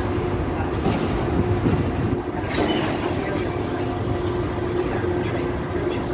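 Container freight train's flat wagons rolling past at close range, a steady noise of wheels on rail. About three seconds in, a thin high wheel squeal sets in and holds.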